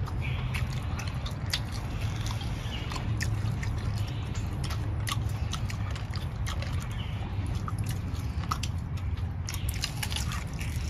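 Small wet mouth and chewing sounds of people eating grilled pork ribs by hand: scattered short clicks and smacks over a steady low hum.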